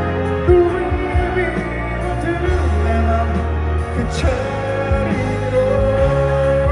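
Live band playing a ballad over a steady bass, with long held notes on top, mostly a sung line between lyrics.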